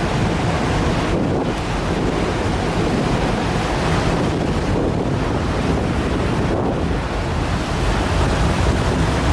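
Steady wind buffeting the microphone over the wash of water and the low running of a ferry's engines.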